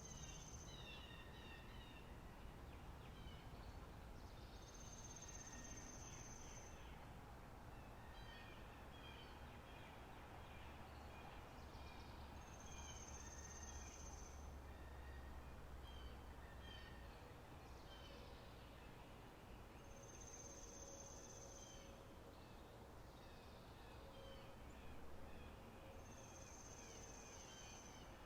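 Faint spring-meadow nature ambience: many birds chirping with short repeated notes, and a high, thin buzzing note of about a second and a half that comes back every seven seconds or so.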